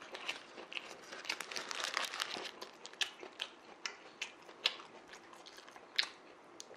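Close-miked chewing of a sandwich mixed with the crinkling of its paper wrapper being handled: an irregular scatter of sharp crackles and clicks.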